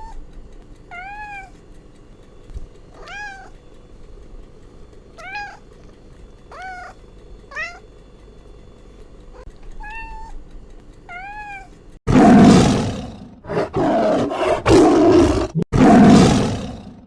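A young cat mewing: about eight short, high calls, each rising and then falling in pitch, a second or two apart. About twelve seconds in it cuts to loud, rough roaring from a big cat, a lion.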